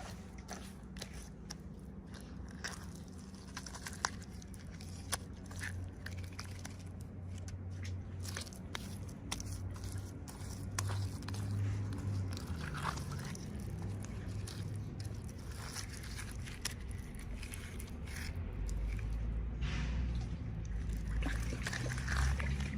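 Hands unboxing small toys: irregular scraping, crinkling and clicking of packaging and small plastic parts, over a low steady hum.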